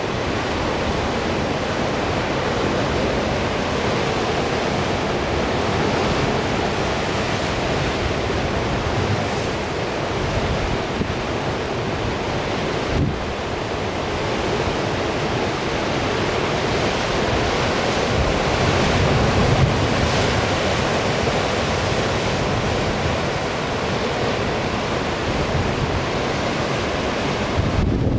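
Rough sea surf rushing, mixed with strong wind buffeting the microphone in a low, uneven rumble; it swells a little about two thirds of the way through.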